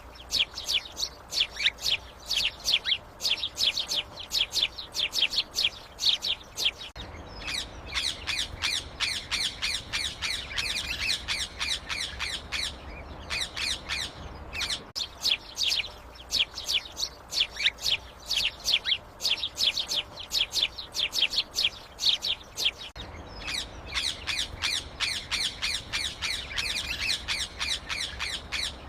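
Many small birds chattering together: rapid, high-pitched chirps and squawks, several a second, without a break.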